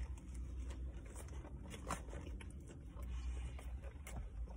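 Someone chewing a sandwich, with a few faint clicks and crinkles from its foil-lined paper wrapper, over a low steady hum.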